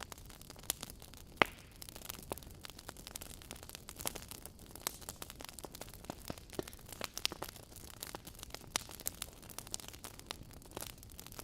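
Wood fire crackling in a fireplace: irregular sharp pops and snaps over a steady hiss, with one louder pop about a second and a half in.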